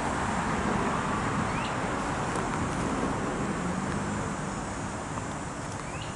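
Steady outdoor background noise, a low even rumble with no clear events, with two faint short chirps about a second and a half in and near the end.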